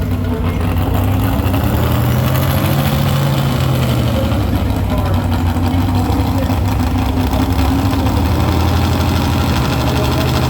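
Big pulling-vehicle engine running loud and steady at low revs, its pitch rising and falling gently a few times.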